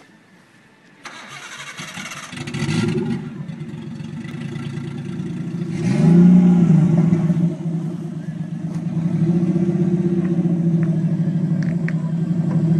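A car engine starts about a second in, revs up briefly about six seconds in, then settles into a steady idle.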